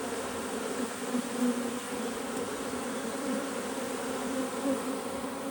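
Many honeybees buzzing together in a steady hum with small swells.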